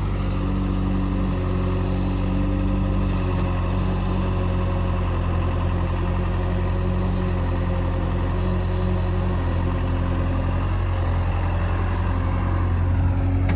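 Heavy diesel engine running steadily at a low, even speed, its deep hum growing slightly louder near the end.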